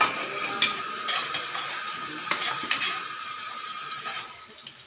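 Chopped garlic and ginger sizzling in hot oil in a steel wok, with a metal spatula stirring and scraping against the pan in a few sharp strikes over the first three seconds. The sizzle thins near the end as the garlic turns golden brown.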